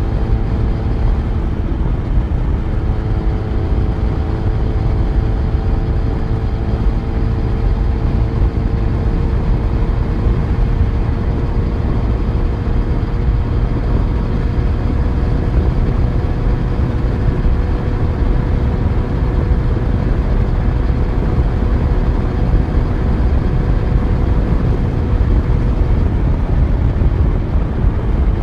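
Yamaha FZ1's inline-four engine running steadily while riding at a cruise, its note creeping slowly upward through most of the stretch, over a heavy low rumble.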